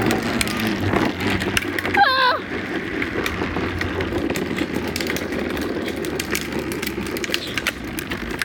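Tonka toy truck rolling over pavement: its wheels make a steady rumble with scattered rattling clicks. A short yell about two seconds in.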